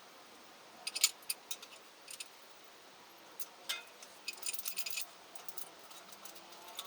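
Light metallic clinking: small hard metal objects knocking together in scattered sharp clicks, with a busier run of clicks a little past the middle.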